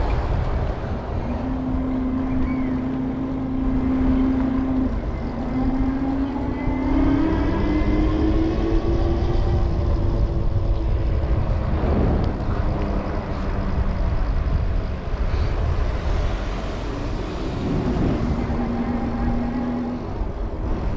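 Wind rushing over the microphone of a moving electric bike, with a motor hum that holds steady, rises in pitch about five to ten seconds in, then fades and returns near the end.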